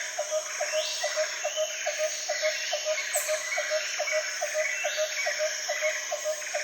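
Outdoor nature ambience: a regular pulsing animal call, about two and a half pulses a second, over a steady high insect drone and repeated bird chirps.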